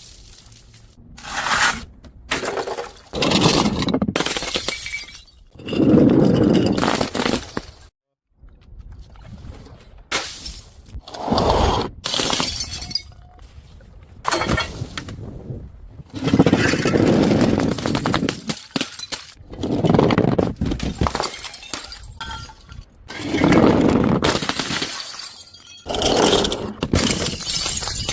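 A series of glass bottles breaking and shattering one after another, each a burst of crashing and crunching glass lasting a second or two.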